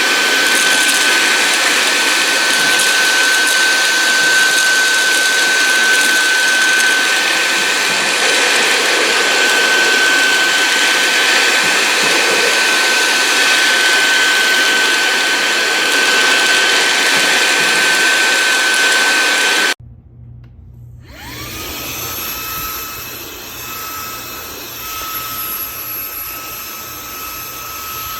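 Shark WandVac handheld vacuum running with a steady high whine over a loud rush of air. About two-thirds of the way through it cuts off abruptly. After a brief gap, a quieter motor whines up to speed and runs steadily.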